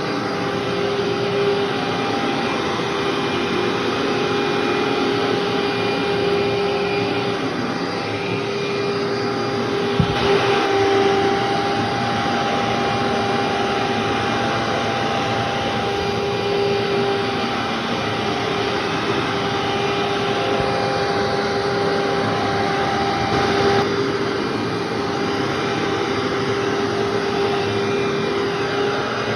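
Vacuum cleaner running steadily, its motor holding a constant whine as it picks up debris from a floor left unvacuumed for three months. One brief knock comes about ten seconds in.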